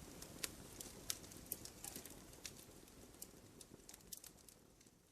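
Wood fire crackling in a fireplace: irregular sharp pops and snaps over a low steady rumble of flame, gradually fading out.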